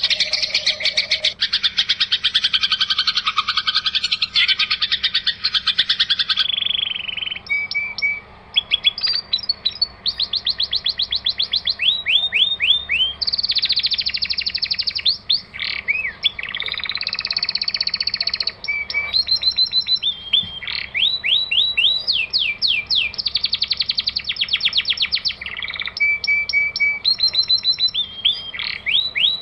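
Songbird song from a masteran recording, the kind played to teach caged competition songbirds new song. It opens with a dense, buzzy high trill for about six seconds. Then come runs of rapid, downward-sweeping whistled notes, broken by short dense trills and chips.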